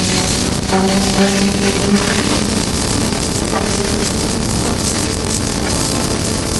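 Wind noise on an action camera's microphone while riding a motorcycle, a steady rush mixed with engine and road noise. A steady pitched tone comes through for about a second, starting about a second in.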